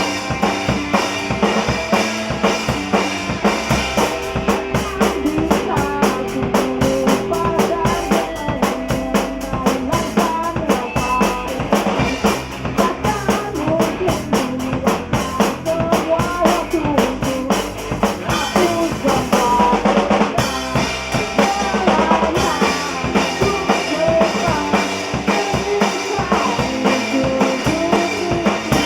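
A rock band playing live in a studio jam, with the drum kit to the fore: bass drum, snare and rimshots keeping a steady beat under sustained pitched instruments.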